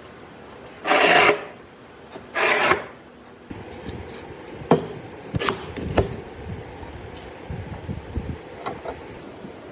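Two loud scraping strokes of a hand tool across wood, about a second and a half apart, followed by a run of lighter knocks and scrapes as the wood is handled.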